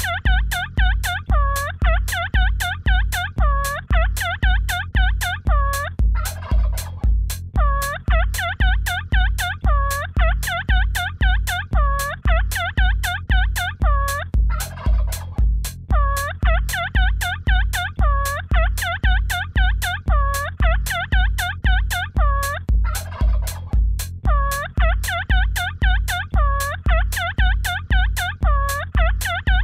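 Electronic dance track built on turkey gobbles: a steady deep kick drum about twice a second under rapid, repeated gobble sounds, in phrases broken every six or seven seconds by a brief noisy fill.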